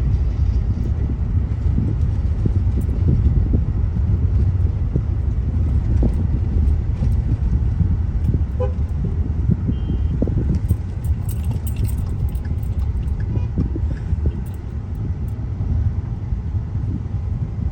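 A car driving along a road, heard from inside the cabin: a steady low rumble of engine and tyres, with light rattles and clicks about two-thirds of the way through.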